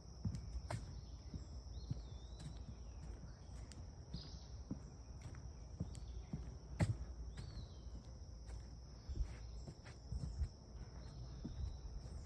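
Footsteps along a trail, irregular soft thumps, over a steady high drone of insects, with a few brief bird chirps.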